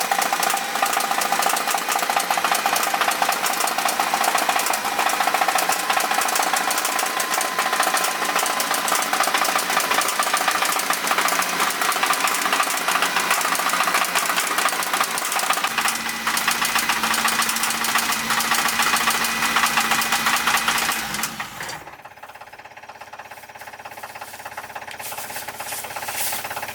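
An engine running with a rapid knocking clatter. Its sound shifts about two-thirds of the way through, then drops away sharply near the end, leaving a quieter sound.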